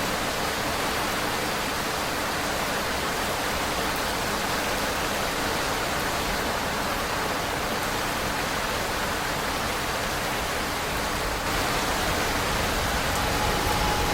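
Steady rushing noise of a New York City subway train running, growing louder about eleven seconds in, with a faint thin squeal near the end.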